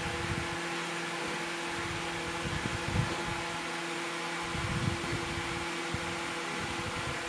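Steady background hum and hiss of room noise, with a few faint low knocks about three and five seconds in.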